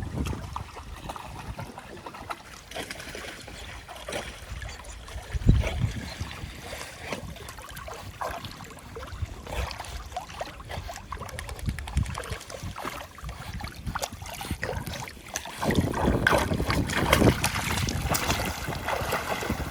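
Pool water splashing and sloshing irregularly as dogs paddle, with one sharp bump about five seconds in and heavier splashing near the end.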